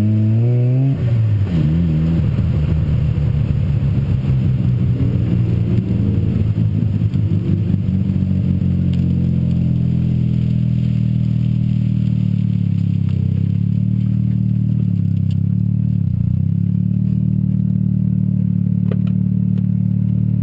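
Mazda RX-7's turbocharged 13B rotary engine coming off the throttle: the revs fall away in the first second, waver at low revs while the car rolls, then settle into a steady idle for roughly the last twelve seconds.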